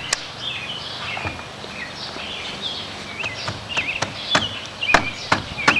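Small birds chirping, with a series of sharp clicks or knocks that come more often in the second half.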